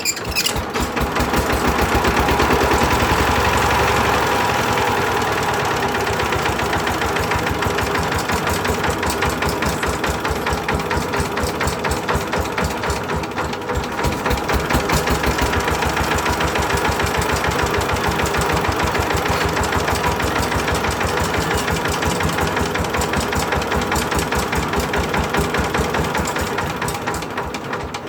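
Power tiller's single-cylinder diesel engine running with a rapid, even chug, fading near the end.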